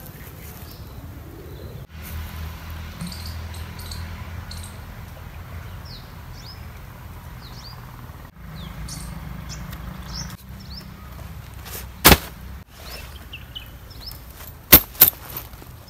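Birds chirping in short, quickly falling calls over a low rumble of outdoor background noise. A sharp click about twelve seconds in and two more close together near the end are the loudest sounds.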